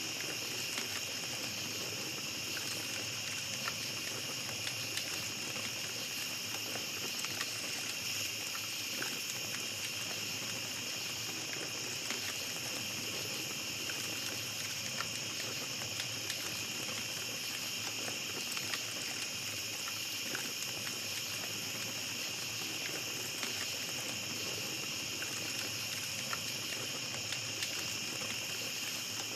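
Small campfire crackling, with scattered sharp pops, over a steady high-pitched night-forest background.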